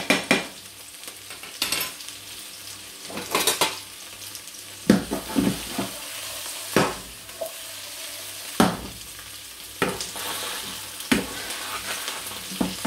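Chopped onion and egg frying in two hot pans with a steady sizzle, while a fork and a spatula knock and scrape against the pans as the onion is stirred, a knock every second or two.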